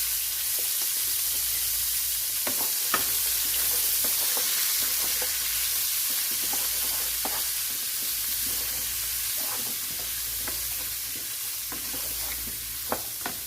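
Vegetables sautéing in a pan: a steady sizzle, with scattered short clicks and scrapes from a utensil stirring them.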